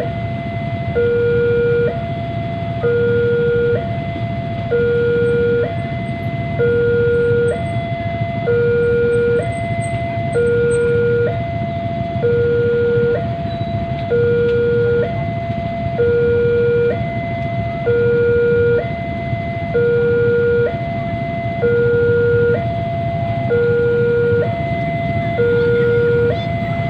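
Two-tone hi-lo emergency-vehicle siren, switching between a higher and a lower note about once a second in a steady, regular cycle, over a constant low traffic rumble.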